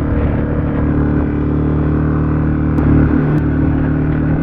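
Adventure motorcycle engine running steadily under way, with a brief wobble in its pitch about three seconds in.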